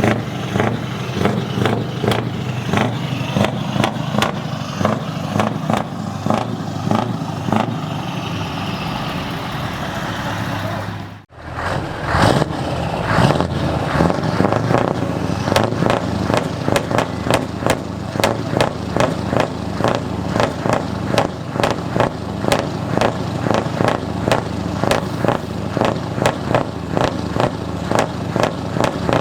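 Scania V8 truck engine running with a loud exhaust, pulsing regularly several times a second. It breaks off abruptly about eleven seconds in and resumes straight away.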